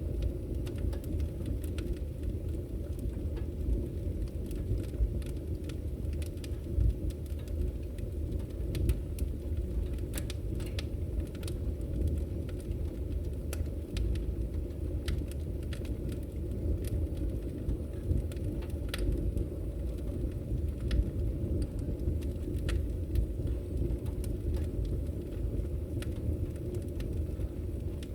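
Firewood burning: a steady low rush of flames with frequent sharp crackles and pops from the logs.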